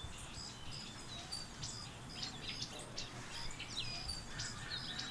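Birds chirping: many short, high notes and a few quick downward-sliding calls, repeating through a faint outdoor background hiss.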